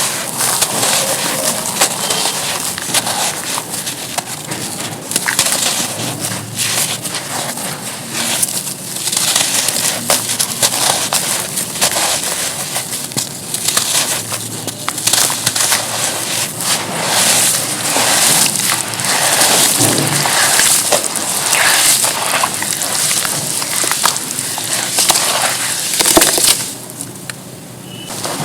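Charcoal being crushed and crumbled: a dense, continuous run of crunching and crackling, briefly quieter near the end.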